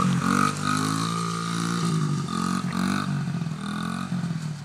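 Dirt bike engine revving, its pitch rising and falling repeatedly as the throttle is worked through mud.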